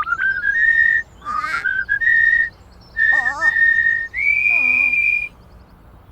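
A cartoon bird's whistled song: a tune of clear held notes that climbs in steps and ends on a long high note. It is broken twice by short, wobbling squeaky sounds.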